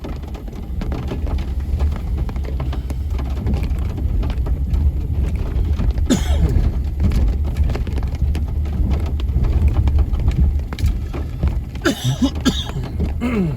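Steady low rumble of a car driving in heavy rain, heard from inside the cabin. A man coughs once about halfway through and twice more near the end.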